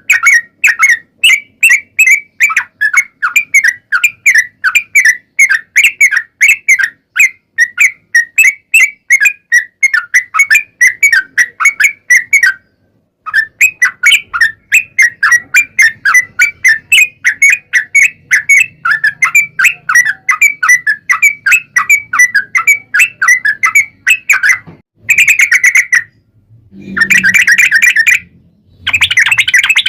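Yellow-vented bulbul (trucukan) singing a long, rapid 'ropel' run of short bubbling notes, about four a second. The run breaks off briefly about halfway and resumes, then gives way to a few shorter, denser bursts near the end.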